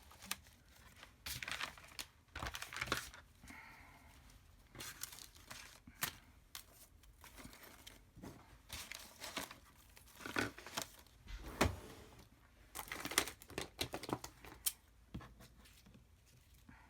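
Paper and craft supplies rustling and crinkling as they are rummaged through on a desk, with irregular sharp clicks and light knocks of small objects being moved.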